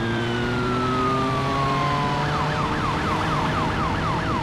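Police siren in a slow wail falling in pitch, switching a little past halfway to a fast yelp of about four sweeps a second, over the steady drone of a motorcycle engine.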